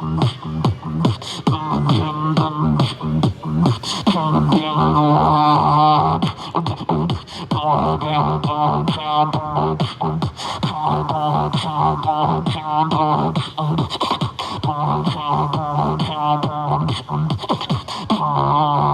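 Human beatboxing: a fast run of sharp mouth-made kicks, snares and clicks over a held low humming bass, with warbling vocal effects higher up.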